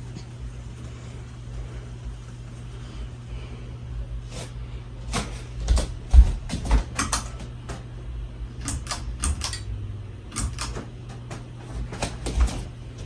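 Hunter Low Profile II ceiling fan's motor humming steadily, with a run of irregular sharp clicks and knocks over it from about four seconds in until near the end.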